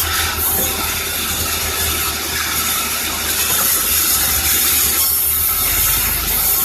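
Sawmill saw cutting through timber: a steady rasping cutting noise over the low hum of the machine.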